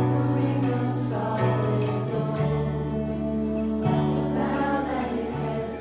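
Congregational worship music: a band with bass and guitar and a steady beat, and voices singing together.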